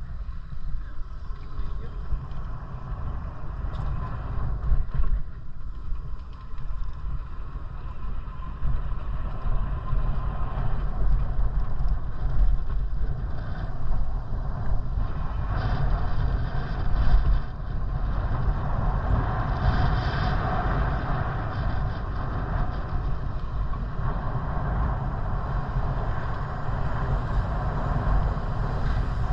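Wind buffeting the microphone while riding a bicycle: a steady, uneven low rumble, with road and tyre noise beneath it.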